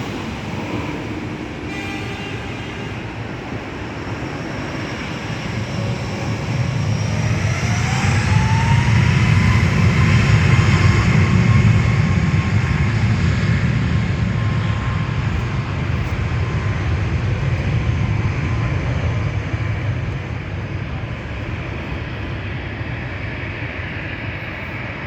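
Boeing 737 MAX 8 jet engines (CFM LEAP-1B turbofans) running. A whine rises in pitch and then holds steady while the engine noise swells to its loudest about ten seconds in and then slowly eases off.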